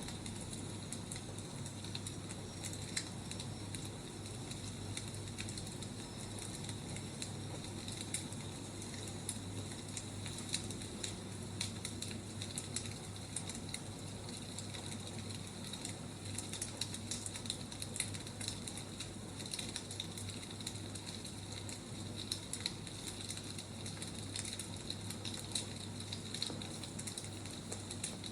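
Wood fire crackling steadily, with frequent small sharp pops over a soft hiss.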